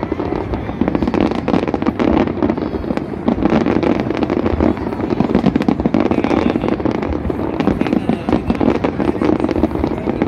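Aerial fireworks display: a rapid, unbroken barrage of shell bursts, many bangs and crackles every second.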